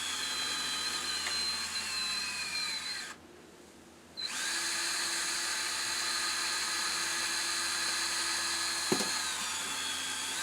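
Electric drill motor whining as it runs, its pitch sagging as if under load. It stops for about a second, three seconds in, then runs again steadily. A short knock comes near the end as the pitch dips briefly.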